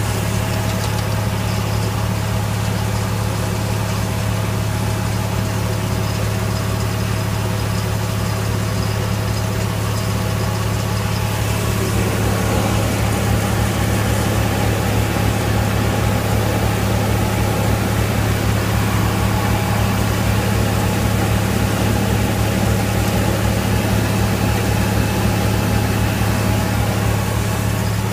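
Tractor engine running steadily, a low even hum, growing a little louder and fuller from about twelve seconds in.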